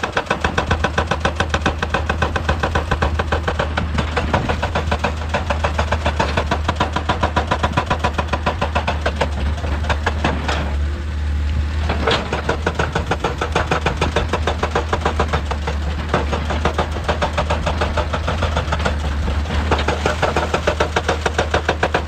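Excavator-mounted hydraulic rock breaker hammering on stone in fast, evenly spaced blows over the steady hum of the machine's diesel engine. The hammering breaks off briefly about halfway through, then starts again.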